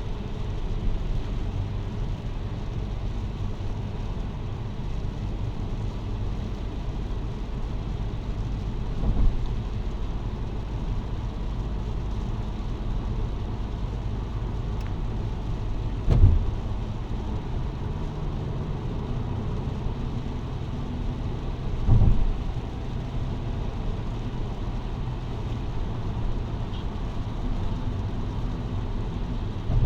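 Car driving on a wet road in heavy rain: a steady low rumble of engine, tyres and rain, with three short low thumps along the way.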